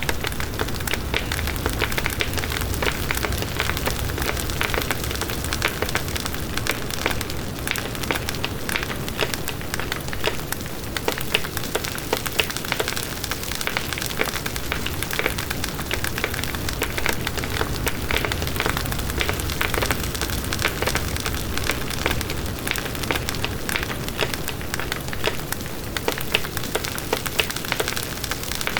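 Campfire burning with a dense, continuous crackle of small pops and snaps over a low, steady rumble of flame.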